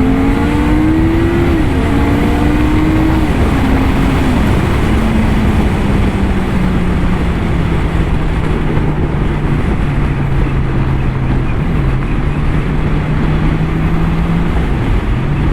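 Honda CBR650R's inline-four engine accelerating hard, its pitch climbing and dropping at quick upshifts in the first few seconds, then easing to a steady lower note as the bike cruises, under heavy wind rush.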